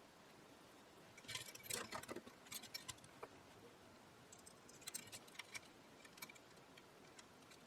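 Faint clicks and light metallic rattling from small parts and hand tools being handled as wires are fitted. The clicks come in scattered clusters, busiest about one to three seconds in and again around five seconds in.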